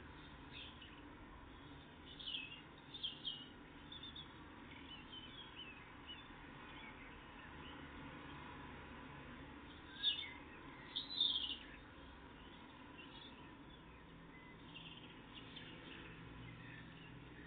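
Tits giving short, high chirping calls in a few brief clusters, the loudest about ten and eleven seconds in, over a faint steady background hum.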